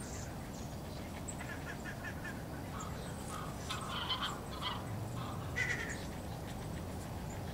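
Birds calling in the background: a quick run of short notes, then a cluster of louder calls in the middle and one more a little later, over steady low background noise.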